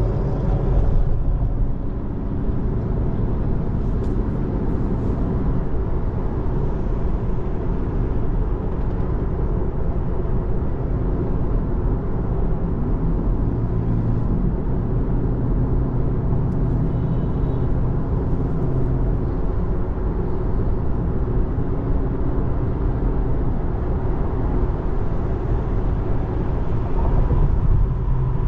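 Steady road and tyre noise heard inside the cabin of a 2024 Tesla Model 3 electric car cruising on a freeway, a low even rumble with no engine sound.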